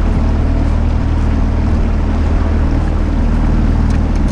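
Honda 8 hp four-stroke outboard motor running steadily under way, a constant low drone.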